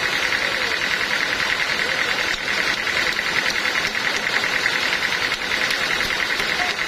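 Sawmill machinery running steadily: a continuous mechanical drone with a high, rapidly pulsing hum.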